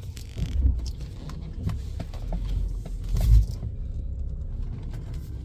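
BMW 5 Series GT 35i's 3.0-litre turbocharged straight-six idling quietly, heard as a low steady rumble from inside the cabin, with no turbo whistle or RPM hunting. A couple of low thumps and some small clicks sit on top, the loudest about three seconds in.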